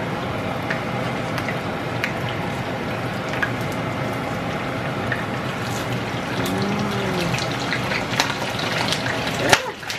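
Vietnamese spring rolls deep-frying in hot oil: a steady sizzle with scattered small pops and crackles. A sharper knock near the end.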